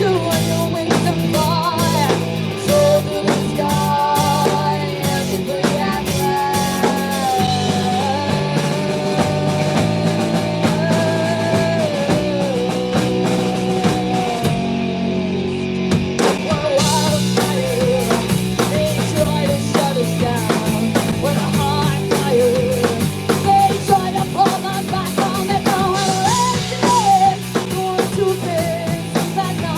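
Rock band playing an instrumental section: a lead guitar melody over electric bass and a drum kit. The cymbals drop out for a couple of seconds about halfway through, then the full drums come back in.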